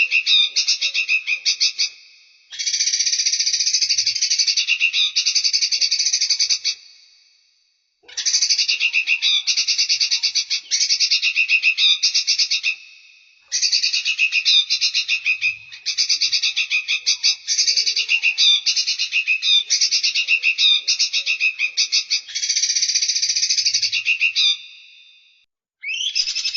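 A small songbird's rapid, high-pitched trilling calls in repeated bouts of about two to five seconds, with short gaps between them.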